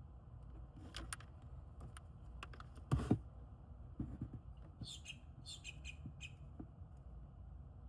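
Scattered small clicks and squeaks from working a hand crimp tool on a wire splice connector. The loudest knock comes about three seconds in, and a quick run of high squeaky ticks follows about two seconds later.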